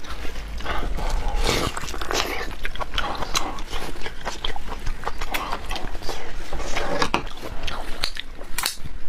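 Close-miked eating: chewing and biting with many irregular wet mouth clicks and smacks.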